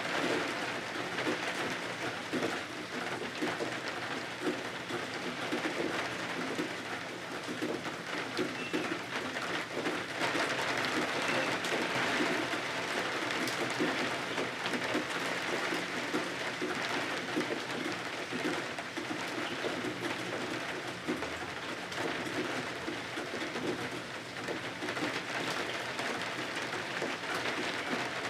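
Steady rain pattering, with a dove cooing low underneath.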